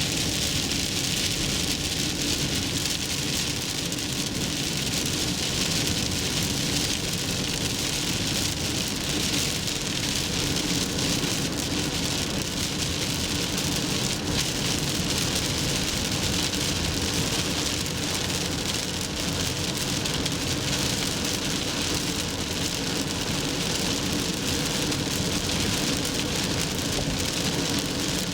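Steady hiss of heavy rain and tyre spray from a car driving on a wet expressway, with a low road and engine rumble underneath.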